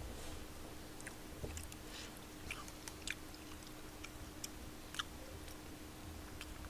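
Faint close-up chewing of tteokbokki (rice cakes), with soft wet mouth clicks every second or so over a faint steady hum.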